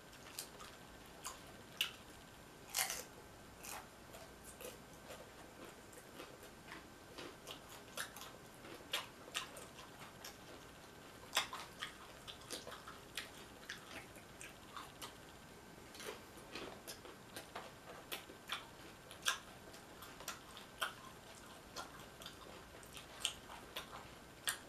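A person chewing nachos close to a microphone: irregular crunches and mouth clicks, about two a second.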